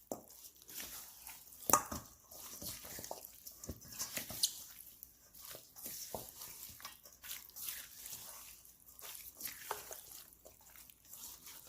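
Raw chicken pieces being mixed with wet seasoning in a bowl: irregular soft squelches and small clicks.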